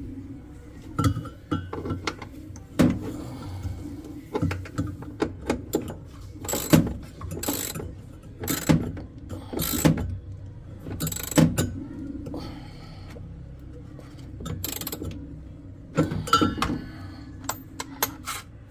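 Irregular sharp mechanical clicks and clacks, a dozen or more, of tools and parts being handled during a washing machine belt repair, over a low steady hum.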